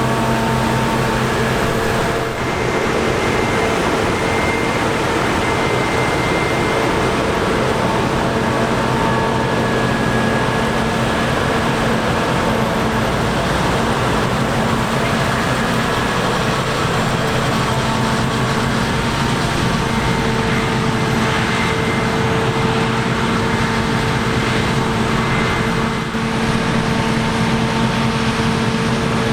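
Heavy harvest machinery, combine harvesters and tractors at work in the grain, running steadily with a constant deep engine hum. The sound dips briefly about two seconds in and again near the end.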